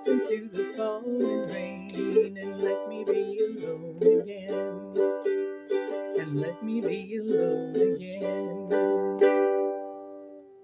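Solo ukulele strumming the closing chords of the song. A final strummed chord about nine seconds in rings on and fades out.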